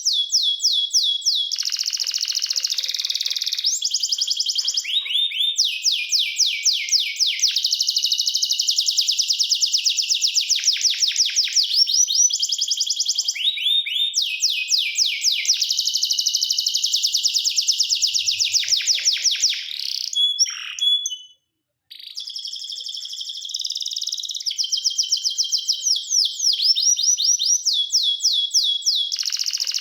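Canary singing, a long run of high, fast-repeated trills and rolls that change tempo from phrase to phrase. The song cuts off abruptly for about a second, roughly two-thirds of the way through, then resumes.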